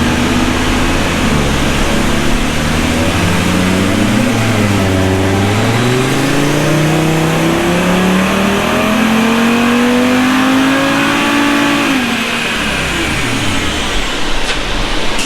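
Audi RS3's turbocharged five-cylinder engine under full throttle on a chassis dyno in a stock baseline run. Its pitch climbs steadily for about twelve seconds, with a brief dip and recovery about four seconds in, then falls away quickly as the pull ends.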